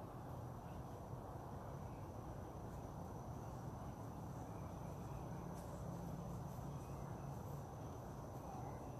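An insect, cricket-like, singing one steady high-pitched note over a constant low background rumble.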